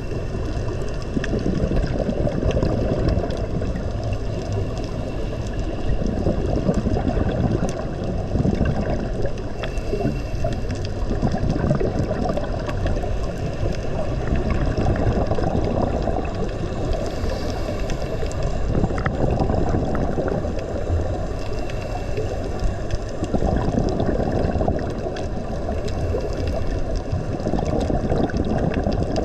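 Steady, muffled rushing and gurgling of water, with a low even level and no distinct events.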